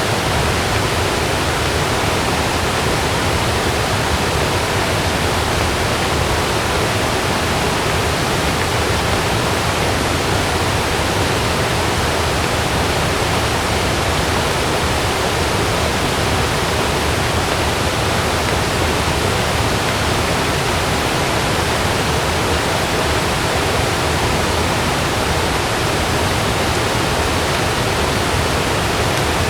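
Heavy rain falling steadily on a camping tent, an even, unbroken hiss.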